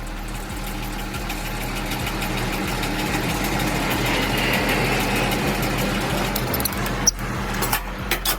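Semi truck's diesel engine idling steadily, with a hiss that swells and fades in the middle and a few sharp clicks or knocks near the end.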